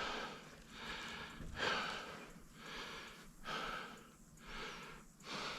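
A person breathing hard from exertion, in and out about once a second, with no voice in the breaths.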